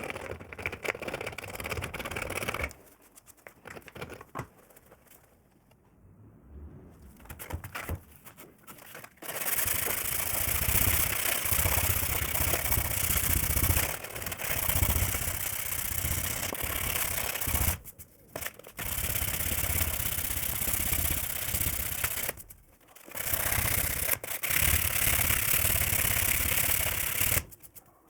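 A power tool running in several long bursts with short pauses between them, a steady rushing noise with a low rumble.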